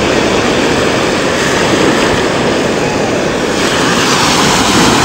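A steady, loud rush of sea surf and wind at the shore.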